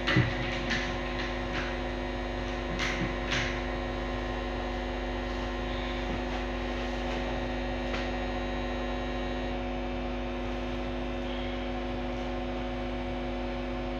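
Steady electrical mains hum, several fixed tones held throughout, with a few light clicks in the first few seconds and one more about eight seconds in.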